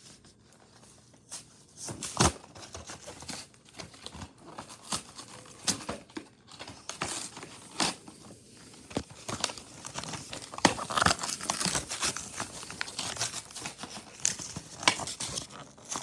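Toy train box packaging being opened by hand: crinkling and tearing with scattered clicks and snaps, sparse at first and busier from about halfway through.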